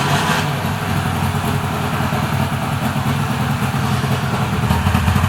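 Subaru R-2's 360cc two-cylinder two-stroke engine running steadily at idle, just restarted.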